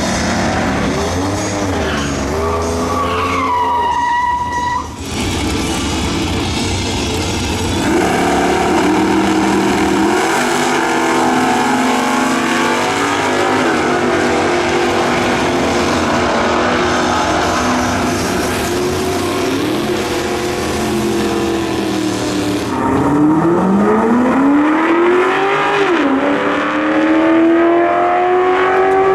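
V8 muscle car engines running hard under acceleration, their pitch climbing and then dropping sharply at each gear change, several times over. A high squeal of tyres about four seconds in.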